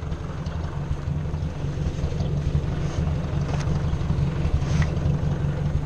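Ford 600 tractor's four-cylinder engine running steadily, a low, even rumble.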